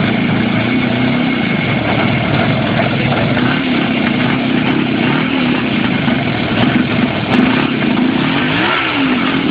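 Motorcycle engine running steadily, its pitch rising and falling a few times with the throttle, with one clear rev up and back down near the end.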